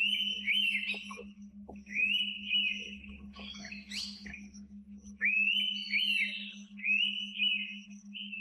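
Indian pitta calling: its two-note whistle, each note a quick upward sweep that levels off, repeated about four times. A steady low hum runs underneath.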